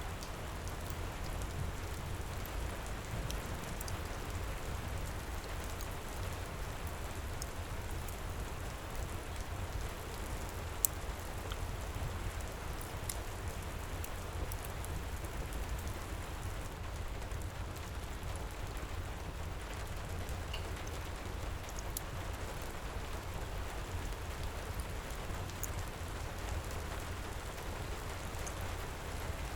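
Steady heavy rain with a deep low rumble, mixed with the scattered small pops and crackles of a wood fire; one sharper pop about eleven seconds in.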